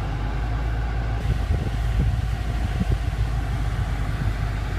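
BMW M5 F10's 4.4-litre twin-turbo V8 idling steadily, heard from inside the cabin, with a few light knocks around the middle.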